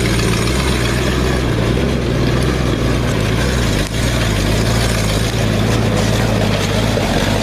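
1959 GMC dump truck's engine running steadily at low revs while hauling a load of rock, with a single short knock about four seconds in.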